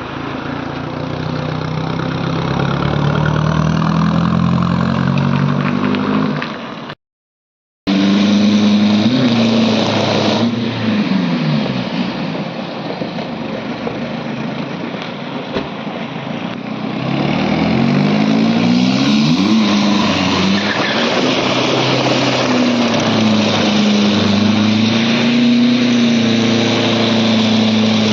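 Mercedes-Benz C220 turbo diesel engine revving up and down under load in a burnout, over the steady hiss of spinning, smoking tyres. The sound cuts out briefly about seven seconds in.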